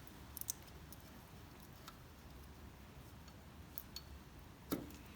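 Scattered small clicks and taps of metal parts being handled as a throttle cable and its nut assembly are fitted back in place: a quick cluster about half a second in, a few single ticks, and a louder knock near the end.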